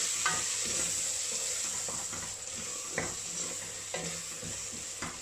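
Onion-tomato masala with freshly added ground spices sizzling in oil in a stainless steel pot, stirred with a wooden spoon that scrapes and knocks against the pot a few times. The spices are being fried until their raw smell is gone.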